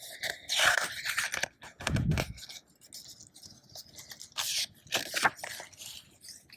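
Pages of a picture book being turned and handled: paper rustling and scraping in irregular bursts, with a dull bump about two seconds in.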